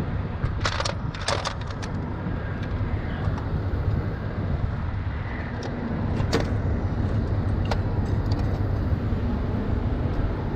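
Heavy truck engine idling steadily, with a few sharp metallic clinks and knocks about a second in and again around six and eight seconds in.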